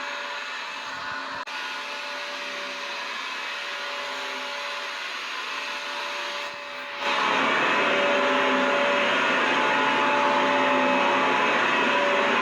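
Vacuum cleaner running steadily, a rushing whoosh of air with a motor whine on a few steady pitches. It turns noticeably louder and fuller about seven seconds in.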